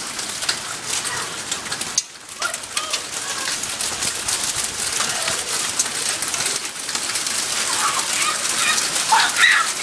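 Rain and hail falling steadily, a dense patter of many small impacts.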